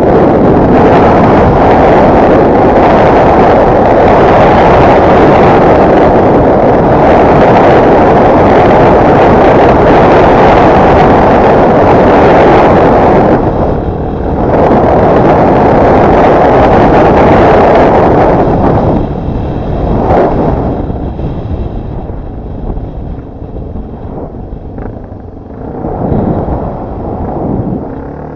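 Off-road motorcycle being ridden at speed, engine noise mixed with heavy wind buffeting on the onboard microphone. It dips briefly about 14 seconds in, then drops to a quieter, uneven run from about 19 seconds.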